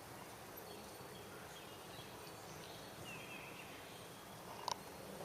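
Faint, steady outdoor background noise with a few faint high chirps, and a single sharp click near the end.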